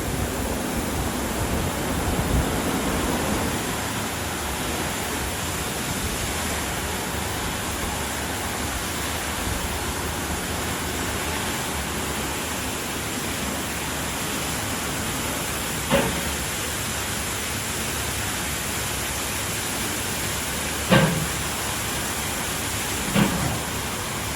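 WashTec SoftCare Pro Classic rollover car wash running, with a steady rushing hiss of water spray and brushes. A few short knocks sound over it in the second half.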